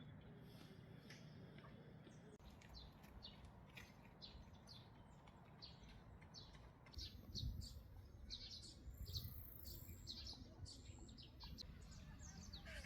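Wild birds chirping: many short, high calls, repeated irregularly and a little livelier in the second half, over a faint low rumble that swells briefly about seven to nine seconds in.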